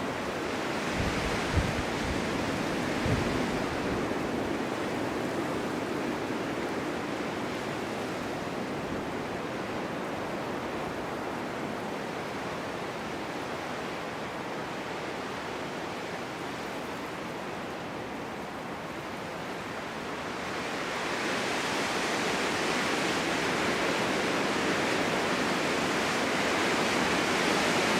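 Winter wind blowing in a steady rush with snow. It eases through the middle and builds into a stronger gust about three quarters of the way in. A few low buffeting thumps come near the start.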